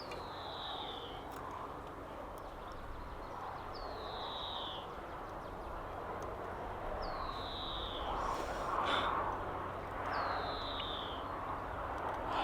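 A bird calling outdoors: a single falling whistled note, repeated four times about every three and a half seconds, over a steady background hiss. A brief rustling noise comes about two-thirds of the way through.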